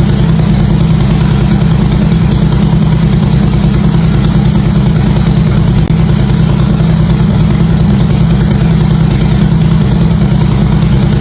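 Harley-Davidson V-twin motorcycle engine idling steadily through its exhaust, a deep, even pulsing with no revving.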